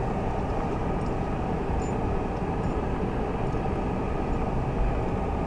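Steady rumble of a car driving slowly on snow-covered streets: engine and tyre noise inside the car's cabin.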